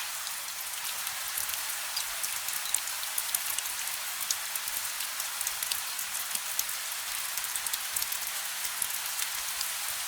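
Steady rain: an even hiss with many small, sharp drop ticks scattered through it, and no thunder.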